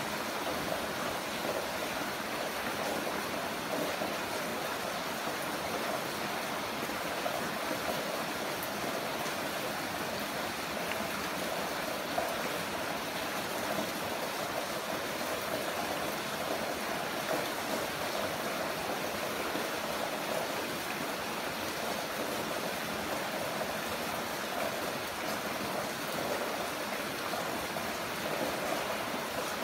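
Heavy rain falling steadily, an even rushing hiss with no change in strength.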